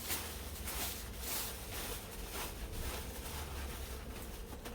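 Aluminium foil being crinkled and folded by hand around food, a run of irregular short crackles.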